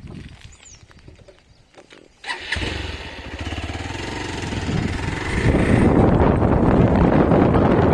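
A vehicle engine starts suddenly about two seconds in and pulls away, getting louder. From about halfway through, heavy wind noise on the microphone takes over as it picks up speed.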